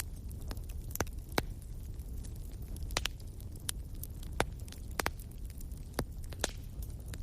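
Wood bonfire burning: a steady low rumble under irregular sharp crackles and pops from the burning wood.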